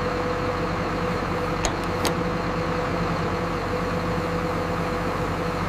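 Steady mechanical hum of factory machinery, with two short sharp clicks about a second and a half and two seconds in.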